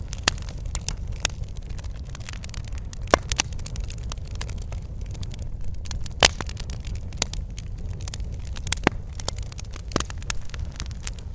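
Wood fire crackling and popping over a steady low rumble of burning, with sharp snaps at irregular intervals, the loudest about three and six seconds in.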